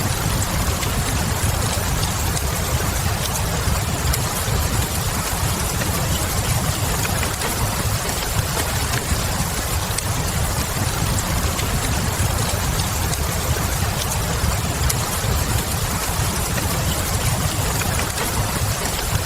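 Steady rain mixed with a crackling wood fire: a dense, even hiss with a low rumble underneath and a few faint scattered pops.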